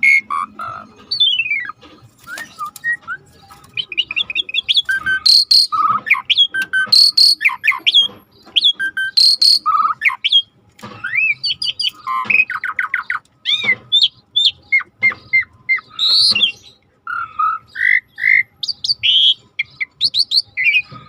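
A starling singing a fast, varied song of whistles, rising and falling glides, chirps and rattling trills, in short phrases with brief gaps between them.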